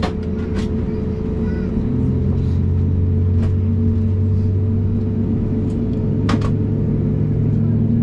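Cabin drone of an Airbus A320neo on the ground during pushback: a steady low hum with fixed tones that grows louder about two seconds in, with a few faint clicks.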